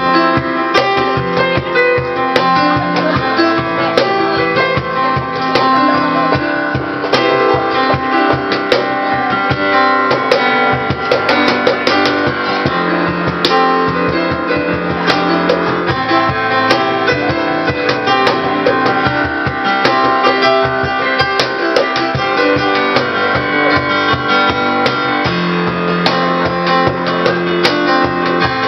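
Live acoustic band music: a cajón striking out a steady beat under sustained, strummed chords.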